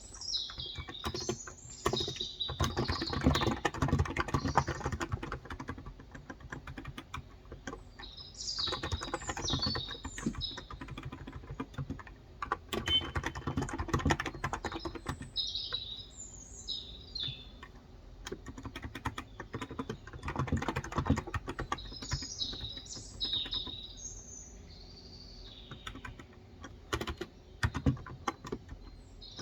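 Typing on a Cox Endeavor electrostatic capacitive (contactless) tenkeyless keyboard with 35 g switches: dense runs of key strokes lasting a few seconds, separated by short pauses. Small birds chirp in the background several times.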